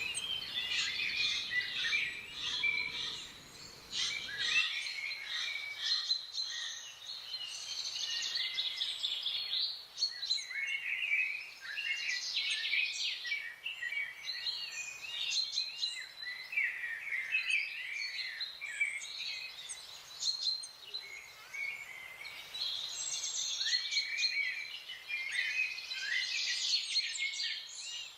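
Several small songbirds chirping and trilling at once, their short calls overlapping densely, with brief lulls around ten seconds in and again near twenty-two seconds.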